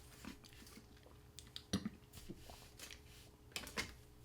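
A person chewing a mouthful of donut: soft, wet mouth sounds with a few sharper clicks, one a little under two seconds in and a short cluster near the end.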